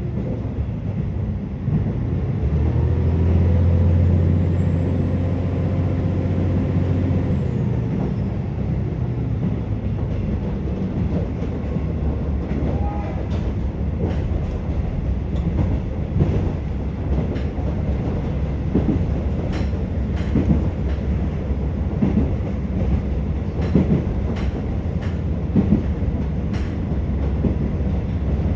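A KiHa 47 diesel railcar heard from inside the carriage while running. Its diesel engine drones under power, rising a little in pitch, and drops away about seven seconds in, leaving the rumble of the wheels on the track with scattered clicks as they cross rail joints.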